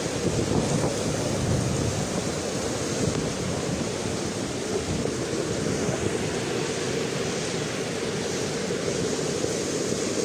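A flooded river rushing in spate: a steady, unbroken roar of fast-moving water.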